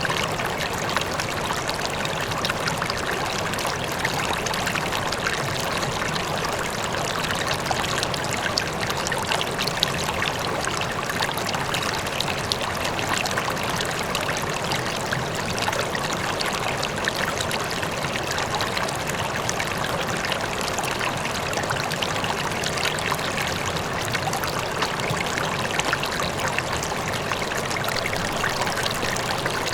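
River water flowing steadily over stones, a constant rushing with fine splashing and trickling, and no breaks.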